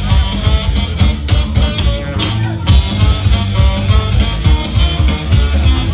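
Rock music with guitar and drum kit playing an instrumental passage, no singing.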